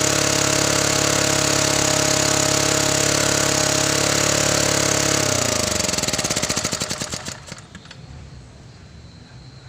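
Small Honda portable generator engine running steadily, then shut off about five seconds in. It slows with falling pitch through a few last beats and stops about two and a half seconds later.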